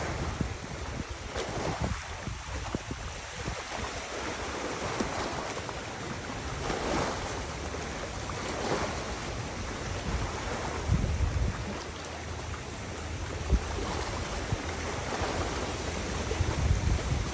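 Wind gusting against the microphone in low rumbling buffets over a steady rush of river water, which swells and eases a few times.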